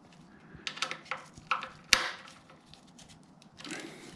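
Metal hand tools and fasteners clicking and clinking as small nuts are taken off a motorcycle part, with one sharp knock about two seconds in.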